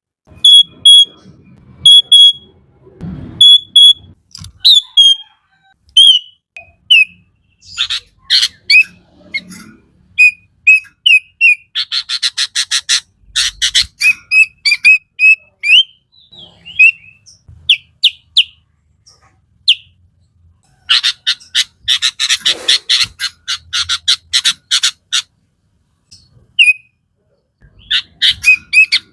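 Sooty-headed bulbul (kutilang) singing vigorously: short clear whistled notes, broken by two long spells of rapid chattering, one about twelve seconds in and a longer one about twenty-one seconds in.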